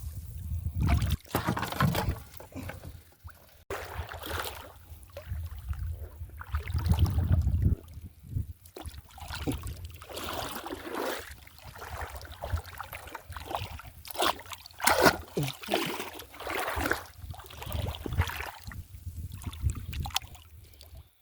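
Shallow water sloshing and splashing in irregular bursts as someone wades and works through it, with a low rumble at times.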